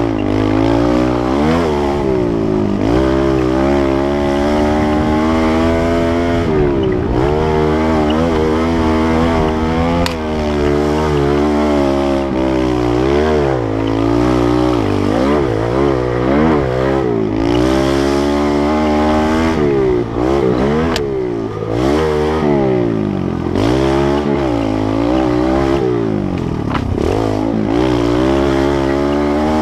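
Kawasaki KLX110L pit bike's small four-stroke single-cylinder engine being ridden, its pitch climbing and dropping again every second or two as the throttle is opened and closed.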